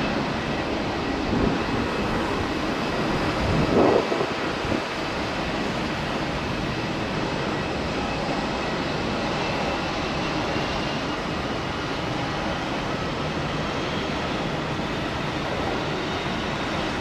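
Airbus A330 jet engines at takeoff power, a steady rushing noise heard from a distance, with a faint high whine that rises slowly in the second half. A brief louder surge about four seconds in.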